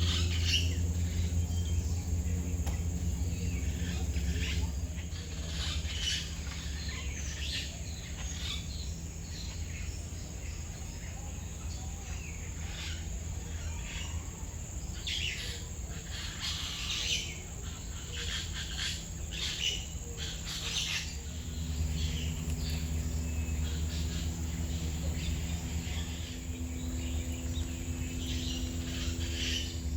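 Many birds chirping and calling, short high calls coming one after another, over a steady low hum.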